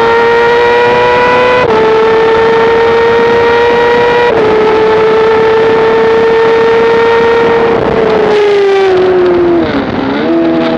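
Motorcycle engine at high revs on a racetrack. The pitch climbs and then drops sharply at two upshifts, about two and four and a half seconds in. Near the end the revs fall away as the bike slows down, then pick up again.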